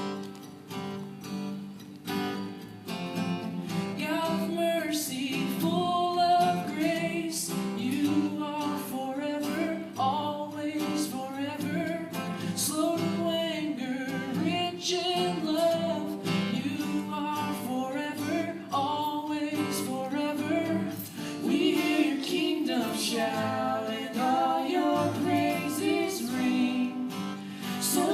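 Strummed acoustic guitar with two voices singing, one a child's; the singing comes in about two seconds in and carries on over the guitar.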